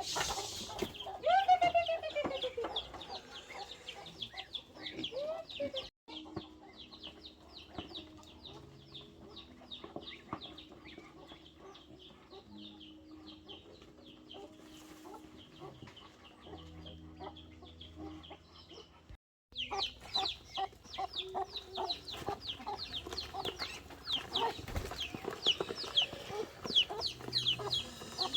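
Chickens clucking and calling, with one loud call falling in pitch about a second in, over many quick, high chirps. The sound drops out briefly twice.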